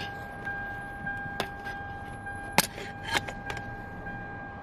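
A few light clicks and knocks from a plastic wiring connector being handled, the sharpest about two and a half seconds in, over a steady high-pitched hum.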